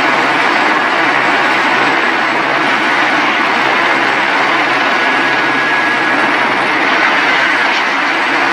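Helicopter running steadily nearby: a loud, even rush of rotor and engine noise with a faint high whine.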